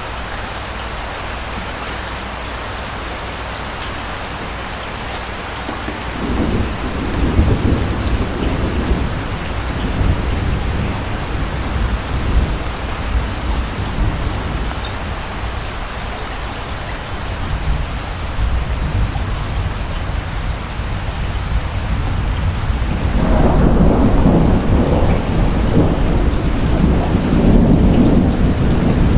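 Steady rain with rolling thunder: a low rumble builds about six seconds in, eases off in the middle, then swells louder again near the end.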